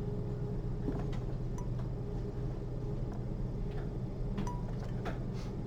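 Faint, scattered clicks and light clinks of metal surgical instruments being handled while suturing, over a steady low hum.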